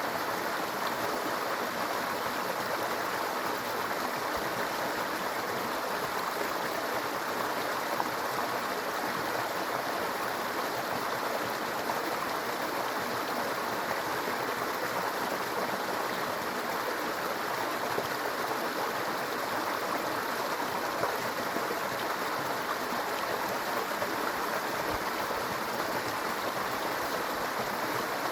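Small brook babbling: a steady, even rush of running water with no breaks or changes.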